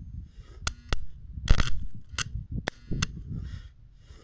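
Stick (arc) welding: the arc crackles and sputters with irregular sharp pops as the rod is struck and burns. The welder puts the poor welding down to electrodes that have drawn moisture.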